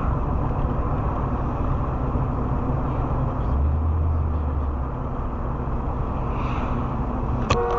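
Road and engine noise of a moving car picked up by a dashcam: a steady rumble that deepens for about a second in the middle. Near the end comes a sharp knock, and a steady tone starts right after it.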